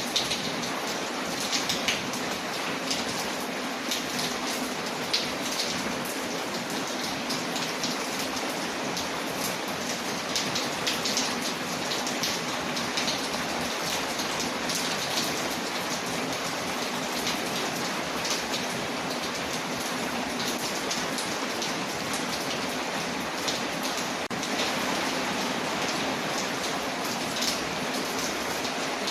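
A mixed ambience track of steady rain against a window, with many short, sharp ticks scattered through the rain.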